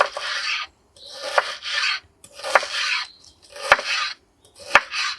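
A knife sawing through very cold meat in five rasping strokes about a second apart, with a sharp click in several strokes.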